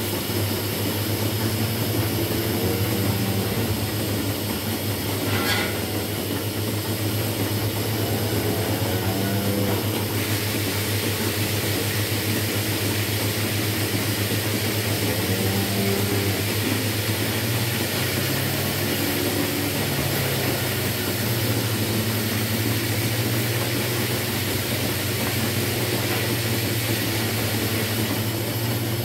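Dairy milking plant running steadily in a milking shed: a constant low hum with a hiss over it. A few faint cow moos come through now and then.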